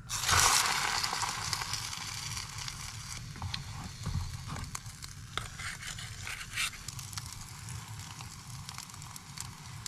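French toast sizzling in a hot pan: a loud sizzle that starts abruptly, strongest in the first second, then settles into a steady sizzle with many small crackles and pops.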